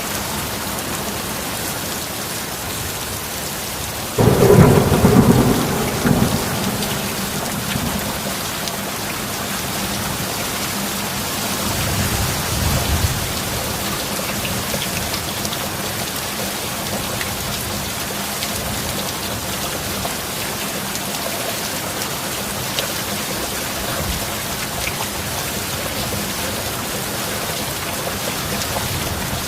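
Steady rain falling. A sudden loud thunderclap breaks about four seconds in and rumbles away over a couple of seconds. A softer roll of thunder follows later.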